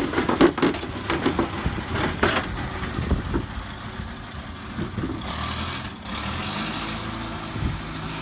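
Van engine running slowly while it is manoeuvred on a ramp, with a run of knocks and clatter in the first few seconds and a short hiss about five seconds in.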